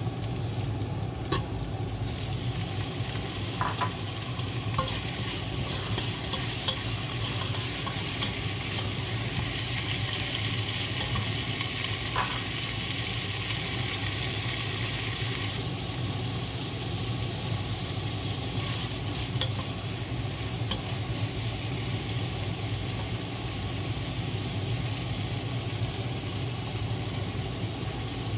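Oil sizzling in a pot as onion, ginger and pork belly are sautéed and stirred, with a few light clicks of the utensil against the pot. The brighter part of the sizzle cuts off about halfway through, leaving a steadier, lower frying sound over a low hum.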